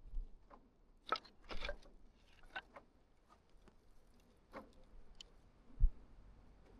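Scattered light clicks and knocks, a dozen or so, with one louder low thump near the end.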